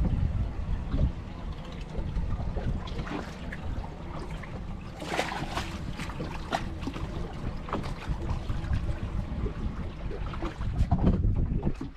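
A boat motor running at trolling speed with wind buffeting the microphone, and splashes and knocks about halfway through.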